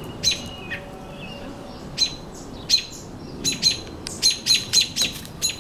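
American robins giving sharp, short alarm calls, about a dozen, sparse at first then in a quick run of about four a second near the end: adult robins agitated by a threat to a fledgling on the ground.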